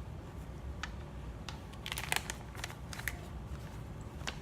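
Scattered small clicks and crinkling from things being handled and set down, a cluster of them about two seconds in, over a low steady hum.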